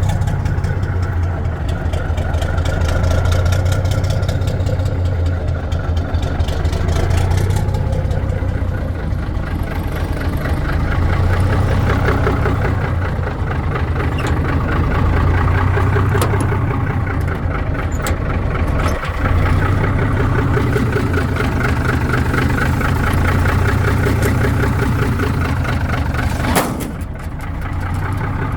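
1955 Mack truck engine idling shortly after a cold start, its level swelling and easing every few seconds. A sharp click near the end is followed by a brief dip in the engine sound.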